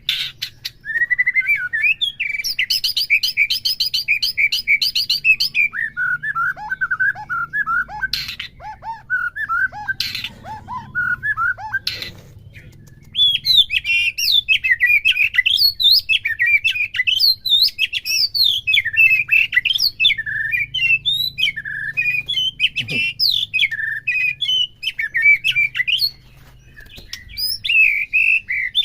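White-rumped shama (murai batu) singing a long varied song: a fast trill, then lower whistled notes broken by a few sharp clicks, then a quick run of varied high phrases with a short pause near the end.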